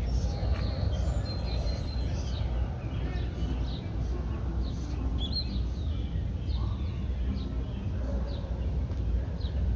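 Small birds chirping, many short high notes scattered throughout, over a steady low rumble.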